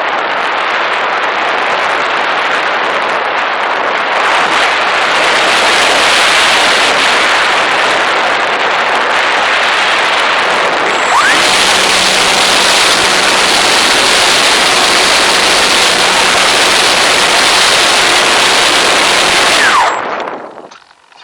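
Loud rushing wind and flight noise picked up by a camera on a flying model airplane. The noise grows brighter and hissier about halfway through, then drops away suddenly near the end.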